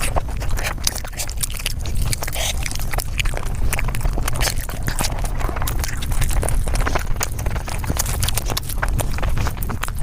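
Close-miked eating sounds sped up about five times: rapid, dense chewing, biting and mouth clicks, over a steady low rumble.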